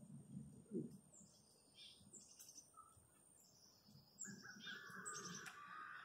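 Faint songbirds chirping in the trees: short high chirps repeated throughout, with a longer, lower call in the last two seconds.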